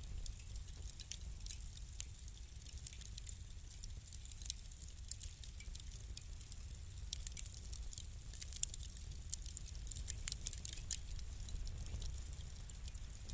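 Wood fire crackling: a steady low rumble of the flames with many small, irregular pops and snaps, a few sharper ones now and then.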